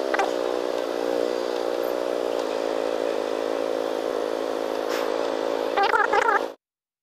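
Bajaj Dominar 400's single-cylinder engine idling steadily while the bike waits in stopped traffic. A short wavering tone comes in near the end, and the sound cuts off abruptly about six and a half seconds in.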